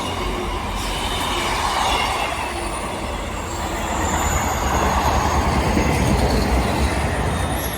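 A train running past on the rails: a steady rumble of wheels and running gear, with a faint high wheel squeal.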